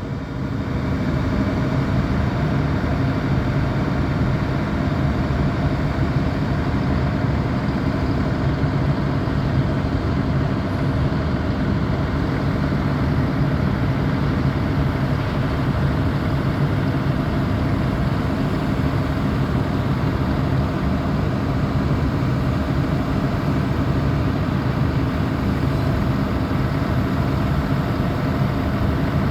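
Heavy engine machinery running at a steady speed, an even low drone that holds without change.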